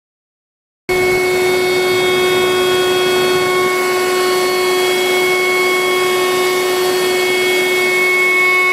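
CNC router spindle running at speed, a steady machine whine with several constant tones, starting abruptly about a second in.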